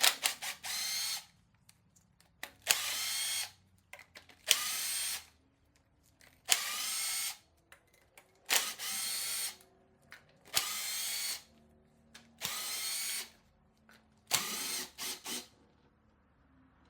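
Power driver backing out the valve cover bolts on an IDI diesel, one bolt at a time. It makes about eight short spins of motor whine, each starting with a sharp click, roughly every two seconds.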